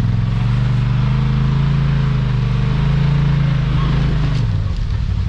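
Off-road vehicle's engine revving up under load on a trail obstacle. It holds higher revs for about four seconds, then drops back.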